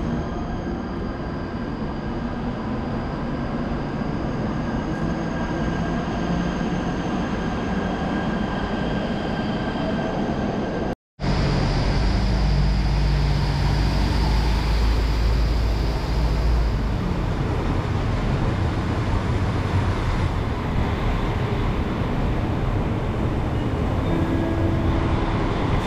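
Electric trains running through a station: a steady rail rumble with a few high, held whines. A brief dropout comes about eleven seconds in, and after it the rumble is louder and deeper.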